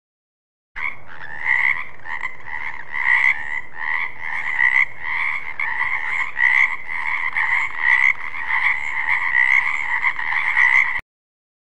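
Frogs croaking in a dense, continuous chorus, with louder pulses a little more than once a second. It starts abruptly just under a second in and cuts off suddenly near the end.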